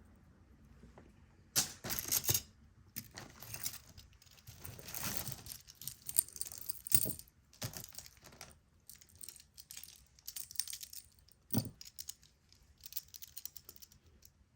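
Costume jewelry being handled: necklaces and beads clinking and jingling against each other, with irregular small clicks and brief rustles.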